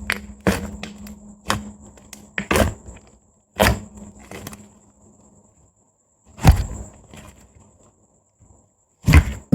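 Soft white slime being pressed and stretched by fingers, giving sharp sticky pops and squelches of trapped air bubbles, irregularly about once a second, with quiet gaps of a second or two between some of them.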